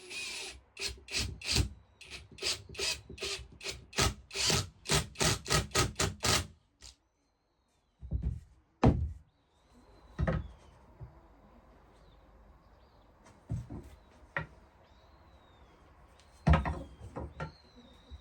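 Wood being worked by hand in quick back-and-forth rubbing strokes, about three a second, for the first six seconds. A few single strokes follow later, with faint bird chirps behind them.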